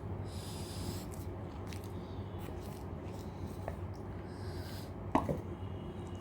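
Close-up mouth sounds of someone eating rice and dal: chewing, with soft breaths through the nose, and a sharp wet mouth click about five seconds in. A steady low hum runs underneath.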